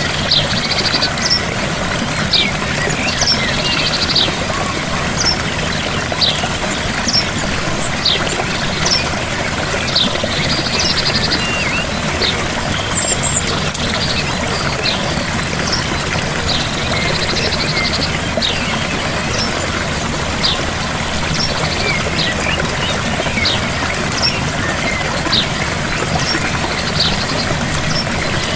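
Gentle waterfall, water pouring and splashing steadily, with small birds chirping over it: short high chirps about once a second and a few brief buzzy trills.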